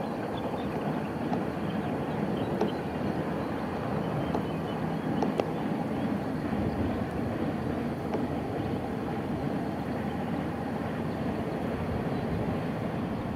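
Distant passenger train hauled by a WAP-5 three-phase electric locomotive running along the track: a steady rumble of wheels on rail with a few faint clicks.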